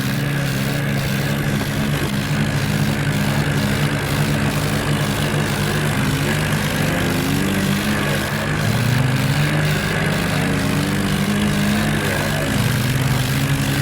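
Tractor diesel engines running hard under load, a steady loud drone whose pitch shifts several times as the revs change.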